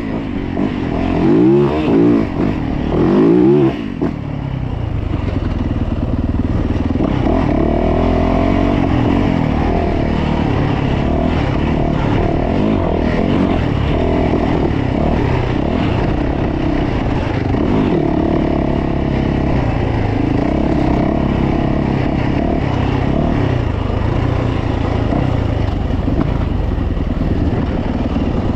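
2022 Yamaha YZ450F dirt bike's four-stroke single-cylinder engine, revving up and down hard for the first four seconds, then running at a steadier, gently wavering pitch as the bike is ridden.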